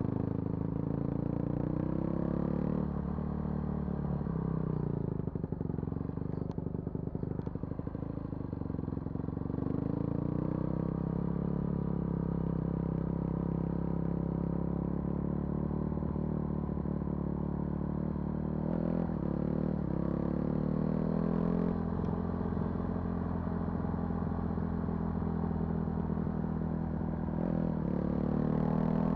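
Vehicle engine running while driving a forest road, its pitch rising and falling with the throttle and gear changes. About four to nine seconds in comes a stretch of rattling and knocking from the rough road.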